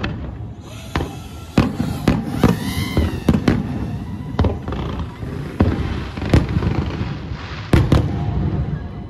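Fireworks display: aerial shells bursting in quick succession, about a dozen sharp bangs over a continuous crackle and rumble.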